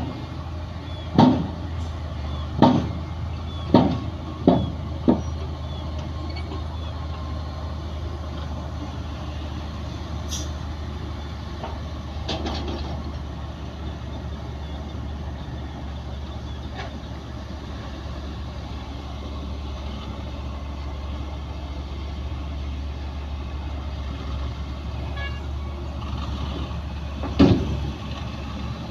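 Heavy diesel earthmoving machinery running steadily with a low rumble, with five sharp knocks in the first five seconds and another near the end.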